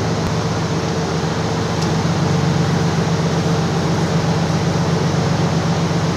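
Pickup truck idling: a steady, unchanging hum with an even hiss over it.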